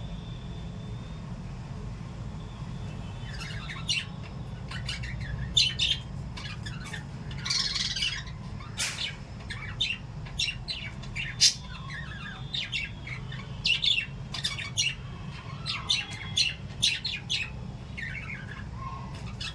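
Small pet parrots chirping and squawking in quick, short calls that start a few seconds in and keep coming, over a steady low hum.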